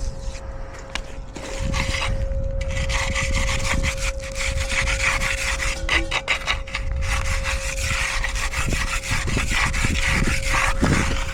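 A concrete finishing tool scraping and rubbing across fresh concrete in quick repeated strokes, starting about a second and a half in. A faint steady hum sits underneath.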